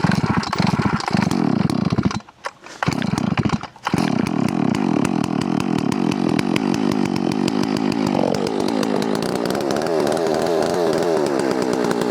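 Holzfforma 660 clone two-stroke chainsaw firing up on a hard start: it runs for about two seconds, dies out twice briefly, then catches and keeps running, its speed dropping slightly about eight seconds in.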